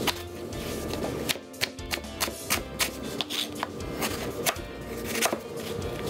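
Freshly sharpened chef's knife chopping eggplant into cubes on a plastic cutting board: a quick run of sharp taps, about three a second, starting about a second in. Background music plays underneath.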